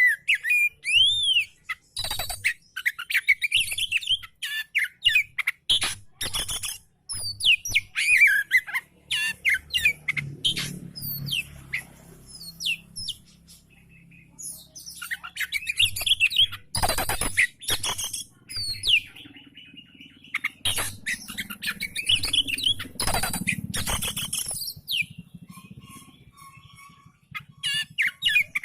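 Oriental magpie-robin (kacer) singing: quick whistled notes and slurred up-and-down glides mixed with short harsh chattering notes, delivered in bursts with brief pauses between phrases.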